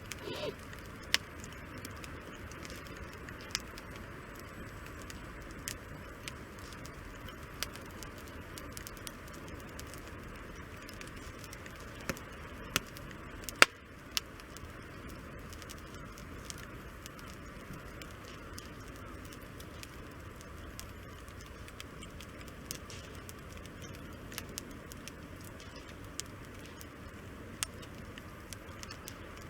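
Wood fire crackling, with sharp pops at irregular intervals, the loudest about halfway through, over a steady hiss.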